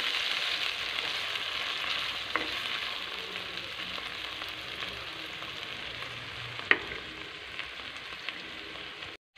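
Small prawns and sliced onions sizzling in hot oil in a karai, stirred with a wooden spatula, with a few sharp clicks, the loudest about two-thirds of the way through. The sound cuts out briefly just before the end.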